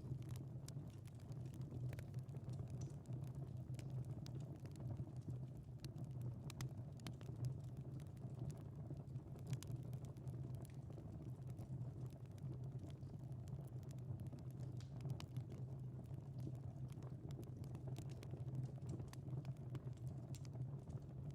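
Wood fire crackling, with irregular small pops and snaps over a steady low background.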